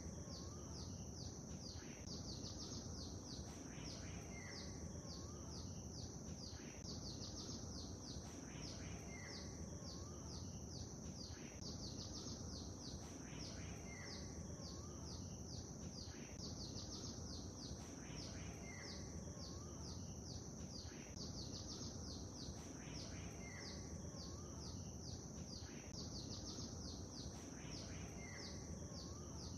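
Lake ambience: a steady low wash of water noise under dense, rapid high-pitched bird chirping, with one bird's short call, a high note and a lower wavering whistle, repeating regularly about every two and a half seconds.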